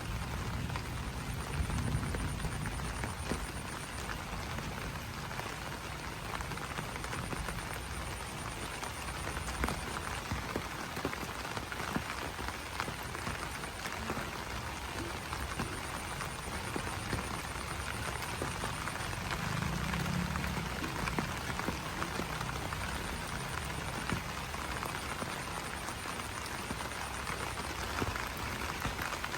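Steady rain on banana leaves: a dense patter of drops with frequent sharper single drips, and frogs croaking in the background. A high, fast-pulsing trill comes and goes in stretches of a few seconds.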